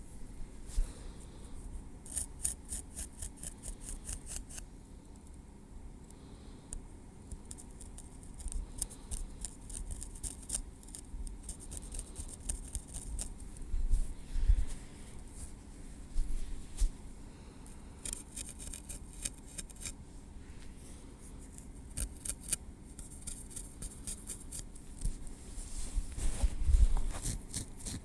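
Metal tweezers clicking close to the microphone in quick runs of many small, sharp ticks, with pauses between the runs. A few soft low bumps come in between, the loudest near the end.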